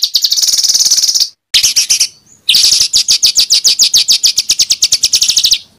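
A songbird's rough, loud rapid-fire song ('tembakan'): fast repeated notes at about ten a second in three bursts. The last burst is the longest and stops abruptly near the end.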